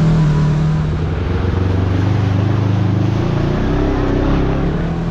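Kawasaki KRX side-by-side's parallel-twin engine running under way. Its pitch drops about a second in as it slows, then climbs again near the end as it speeds back up.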